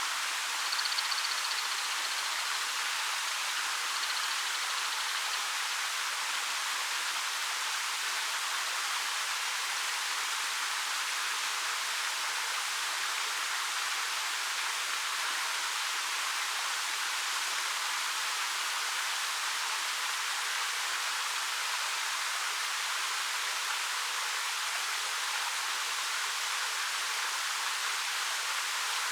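Ariake Falls, a 13 m waterfall over dark rock, giving a steady, even rush of falling water. A faint high chirp sounds about a second in and again near four seconds.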